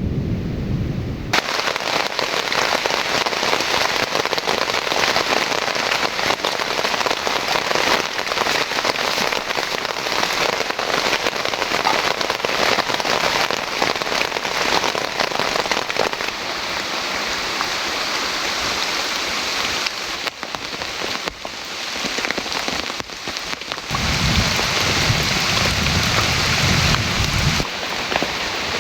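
Rain falling steadily, with a low rumble of thunder for a few seconds near the end.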